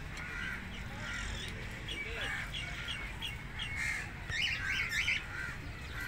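Birds calling and chattering: many short, high calls overlapping, with a louder cluster of quick calls about four and a half seconds in.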